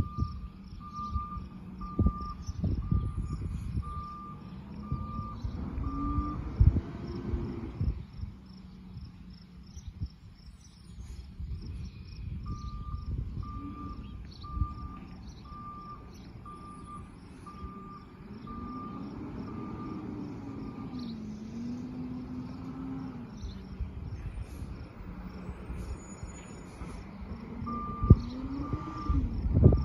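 McNeilus side-loader recycling truck at work. Its warning beeper sounds in three runs of steady beeps, about one a second, while the engine revs up and down several times. Sharp knocks and thumps come through, loudest near the end.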